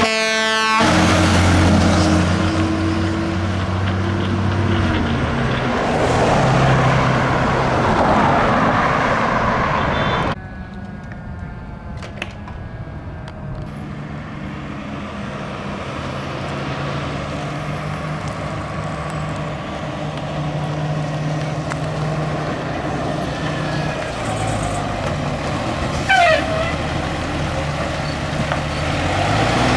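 A fire engine's diesel running loud as it passes, with a short horn blast right at the start. About ten seconds in it cuts sharply to quieter, steady vehicle engine and traffic noise.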